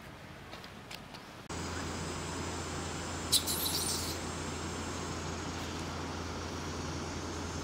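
A short, rapid bird call about three and a half seconds in, over a steady outdoor background with a low hum and faint high steady tones that starts suddenly about a second and a half in.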